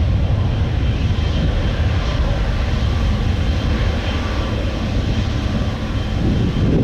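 Boeing 777-300 twin jet taking off, its engines at takeoff power making a loud, steady rumble with a faint high whine.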